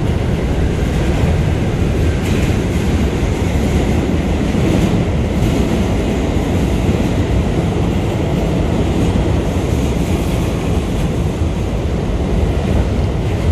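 Steady rumble of an R179 subway train running at speed through the tunnel, heard from inside the car.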